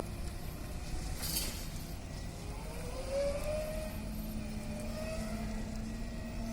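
Electric forklift running, its motor whining over a low rumble. The whine rises in pitch about three seconds in. There is a short hiss about a second in.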